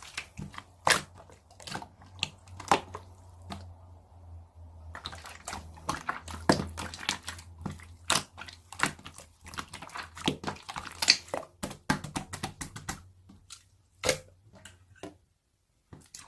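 Pearl slime being squeezed and pressed by hand, giving a dense run of sticky clicks and pops that thin out near the end, over a low steady hum that stops shortly before the end.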